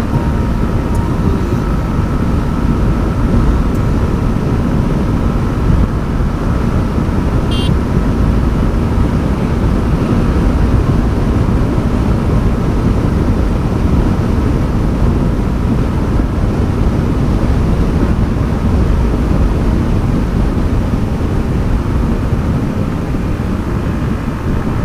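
Motorcycle riding at a steady cruising speed: heavy wind rush over the camera microphone with the Yamaha MT-15's single-cylinder engine humming steadily beneath it.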